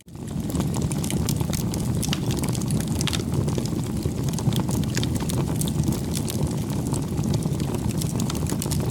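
Wood bonfire burning: a steady low rumble with frequent sharp crackles and pops. The sound cuts out for an instant at the very start.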